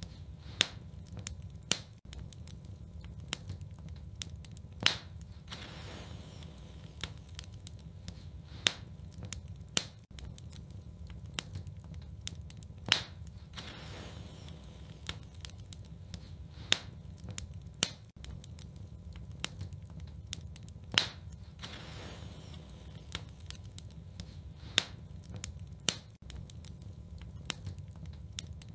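Wood fire crackling in a fireplace: sharp pops and snaps, a loud one every few seconds among many smaller ones, over a steady low rumble.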